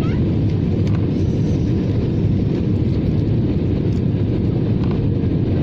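Airbus A320-214 cabin noise: the steady low roar of its CFM56 engines and the airflow, heard from inside the passenger cabin.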